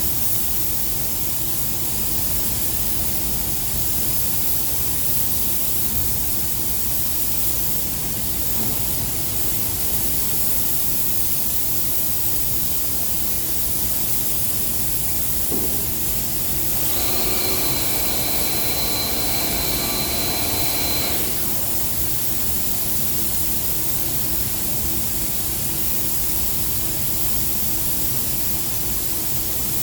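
Spray gun hissing steadily as silver-mirror paint is sprayed, over a low rumble. About two-thirds of the way in, a high steady tone sounds for about four seconds and then stops.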